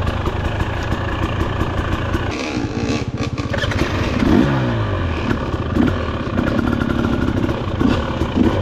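2024 Husqvarna TE300 TBI two-stroke dirt bike engine being ridden under changing throttle. It runs steadily at first, drops off about two and a half seconds in, then rises and falls in pitch as the throttle is worked.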